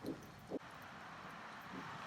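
Faint, steady outdoor background noise, with two short faint sounds within the first half second.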